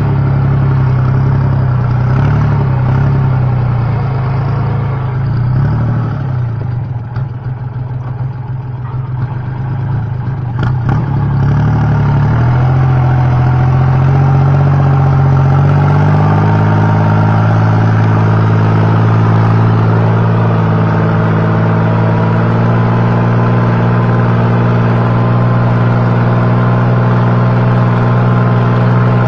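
Kubota tractor diesel engine running through a new loud stainless exhaust pipe. Its note drops and softens about a quarter of the way in, then climbs back up and holds a steady, higher engine speed.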